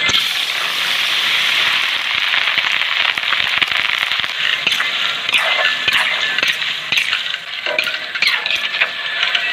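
Fish frying in hot oil: a steady loud sizzle with many small crackles and pops, dipping briefly about three-quarters of the way through.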